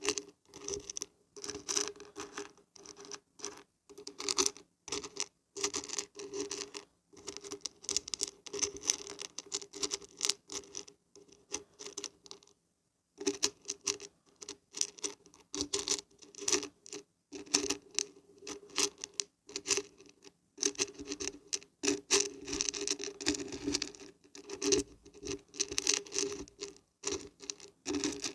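Dried beans and dried barberries being shaken, a dense rattle of many small hard pieces that comes in repeated bursts, with a short pause about halfway through.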